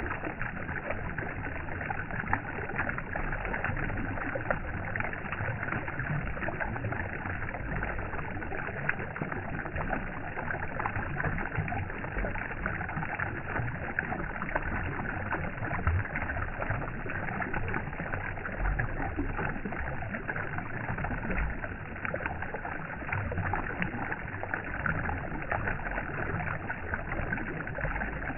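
Steady, unbroken water noise with a constant fine crackle and splash, like water flowing or lapping, with no pauses or swells.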